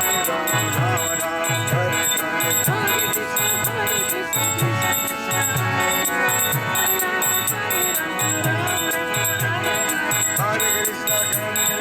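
Harinama kirtan: voices chanting over a mridanga drum's deep thumps and karatala hand cymbals chinking on a steady beat, with held tones from a harmonium underneath.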